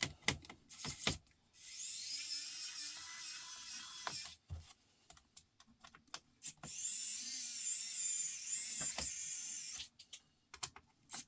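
Small battery-powered electric screwdriver whirring in two runs of about two and a half and three seconds, its motor pitch wavering under load, with sharp clicks of small parts being handled before, between and after the runs.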